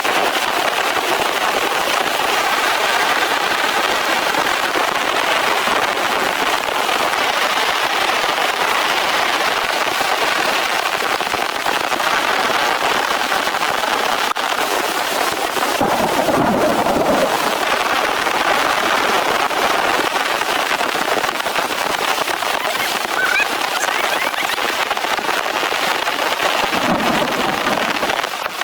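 Heavy rain falling steadily and densely. Two brief low rumbles come through it, about sixteen seconds in and again near the end.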